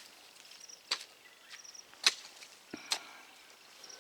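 Footsteps on dry ground: three sharp crunches about a second apart, with a faint short high chirp between them.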